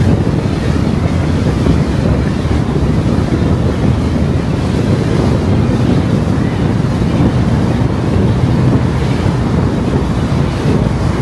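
Steady rumble of a car driving at speed: wind and road noise, heaviest in the low end, with no change in pace.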